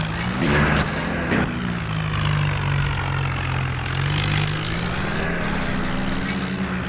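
Small tractor engine running steadily, its pitch dipping and rising slightly as the load changes.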